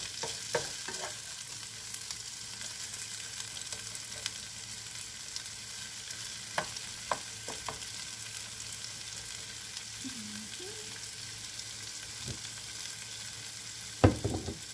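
Shrimp fry and vegetables sizzling steadily in a nonstick frying pan, with a plastic spoon stirring and clicking against the pan now and then. There is a louder knock near the end.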